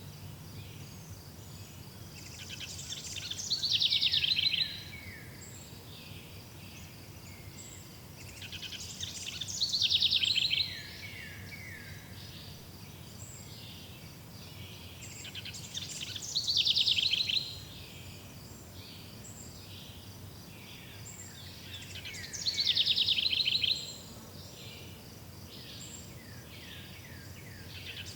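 A songbird repeating the same fast, trilled song phrase, falling in pitch, about every six seconds, five times. Underneath runs a continuous high, pulsing insect chirring.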